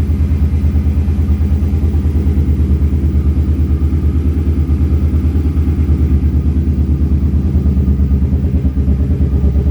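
2009 Suzuki Boulevard M50's V-twin engine running steadily at idle with an even exhaust beat. The fuel injectors have been cleaned, and the engine no longer burbles or puffs at the low end.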